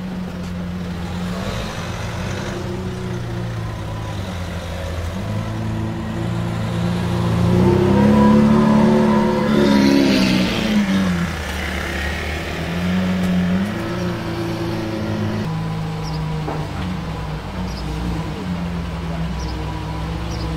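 Hamann Nervudo Lamborghini Aventador roadster's V12 with a Capristo exhaust, running at low revs, then rising in pitch as it accelerates away about eight seconds in, loudest there, and falling back. Near the end it runs steadily at low revs.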